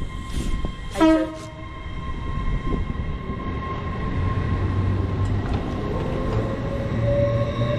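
Train horn gives one short blast about a second in. A low train engine hum then builds from about four seconds in and grows louder again near six seconds.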